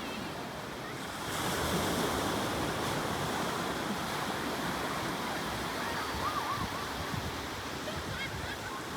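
Sea surf washing on a shore, a steady rush that swells a little about a second in, with some wind.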